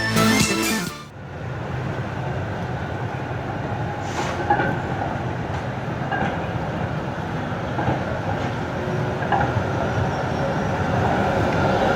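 Music cuts off about a second in, and a city tram running on its rails takes over: a steady rumble of wheels and track with a sharp click about four seconds in and a few brief high squeaks.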